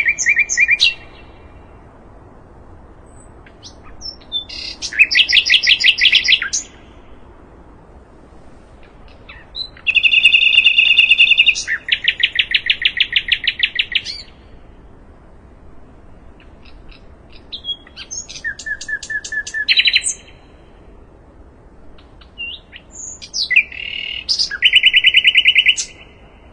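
A sikatan londo songbird singing in separate phrases, each a fast run of the same clear note repeated many times, with pauses of a few seconds between phrases. The longest phrase starts about ten seconds in and lasts some four seconds.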